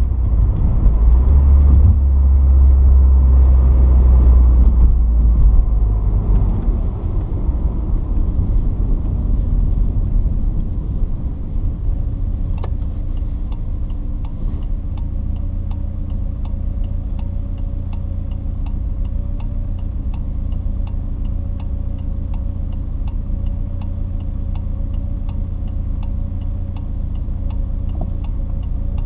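A Porsche 944's 2.5-litre four-cylinder engine heard on board, pulling loudly for the first few seconds, then easing to a steadier, quieter drone. About halfway through, a click is followed by a regular ticking at roughly two a second.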